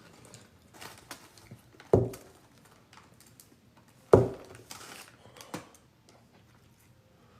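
Handling noise at a table: light clicks and rustling, with two sharp thumps about two seconds apart.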